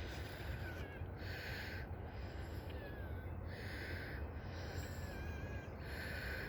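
Soft breathing close to the microphone, one hissy breath about every two seconds, over a steady low rumble of wind on the mic. A few faint, high bird chirps come through in the background.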